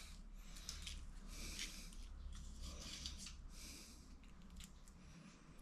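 Faint paper rustling and crackling as the backing paper is peeled off a mouldable toilet pan sealing ring, in irregular short bursts.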